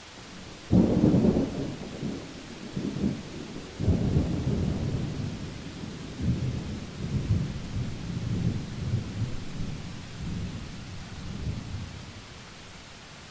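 Thunder over steady rain: a sudden loud clap under a second in, a second peal about four seconds in, then a long low rumble that rolls on and dies away near the end.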